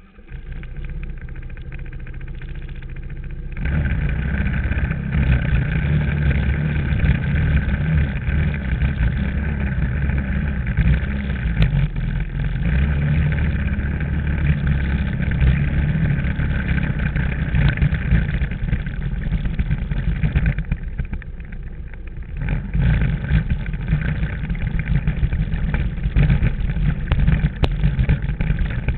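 Engine of a trail motorbike being ridden through mud and puddles, running under load the whole way. It gets louder a few seconds in, eases off about two-thirds of the way through, then picks up again.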